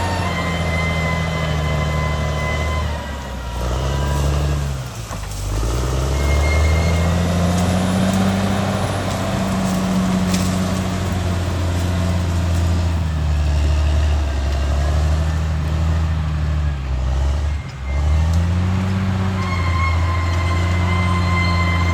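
Caterpillar D6R XL bulldozer's diesel engine working, its pitch rising and falling repeatedly as the load changes, with a steady high whine over it. The engine note drops briefly twice, about four to five seconds in and again near the end.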